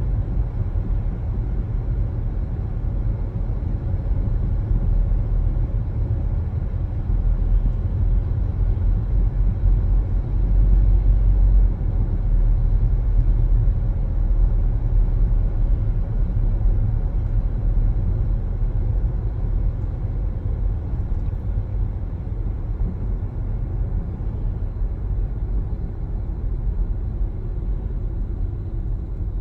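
A car driving along, its steady low road rumble of tyres and engine noise, swelling slightly about a third of the way through.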